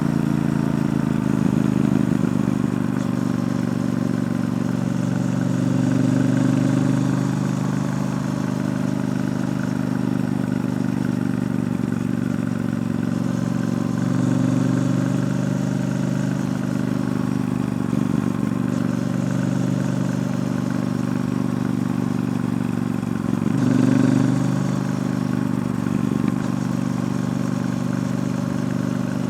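Triumph Bonneville T120 parallel-twin engine through its stock exhaust while riding, running steadily. Its note rises and falls several times as the throttle opens and closes.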